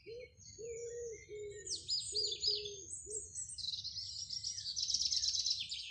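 Garden songbirds chirping, ending in a fast, dense trill over the last couple of seconds, while a pigeon coos in repeated low notes through the first half.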